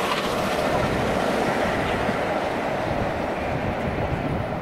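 A steam-hauled train of passenger coaches running away past the platform: the wheels rumble and clatter on the rails, and the sound eases off from about three seconds in as the train draws away.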